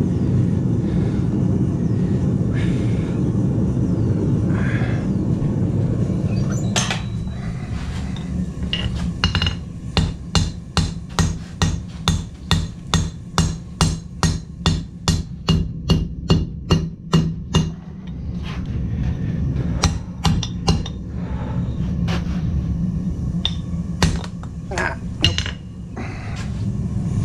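Blacksmith's hammer striking steel on an anvil: a steady run of blows at about two a second, then a few scattered strikes, over a steady low rumble.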